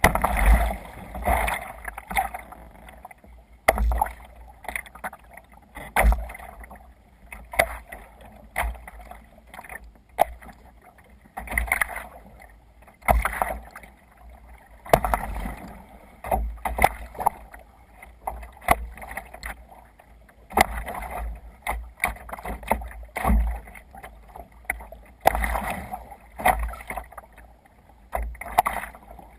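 Water splashing and slapping against a sea kayak's hull as it moves through waves, in irregular surges every second or two with sharp knocks, over a low rumble.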